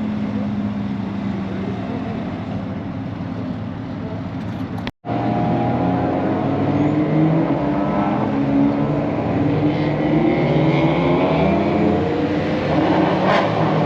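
Race car engines running at speed on a track, their pitch rising and falling as they accelerate and shift. The sound cuts out for an instant about five seconds in, then returns louder.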